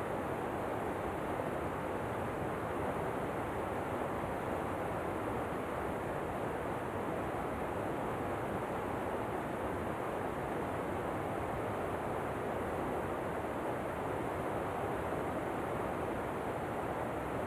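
Steady rushing of a waterfall, an even noise that does not change.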